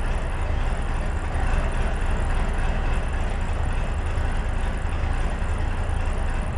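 Cummins V8 diesel engine of an Alvis Stalwart running steadily after a cold start, a deep, even note with no revving.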